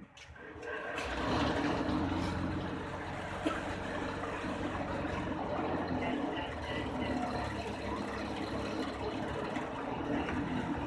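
Home-built cotton candy machine running steadily after starting up about a second in.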